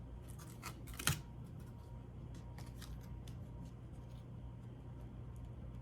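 Small clicks and light scraping of laptop parts being handled and fitted into place, with one sharper click about a second in, over a steady low hum.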